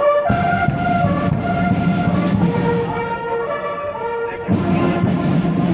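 Brass band playing a tune, held brass notes moving from one pitch to the next over a low rumble.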